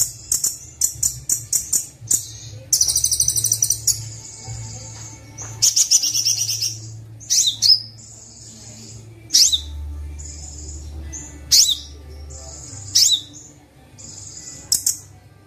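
Kolibri wulung sunbird singing: rapid, high-pitched trills and chips, broken by several sharp downward-swept notes in the second half, over a steady low hum.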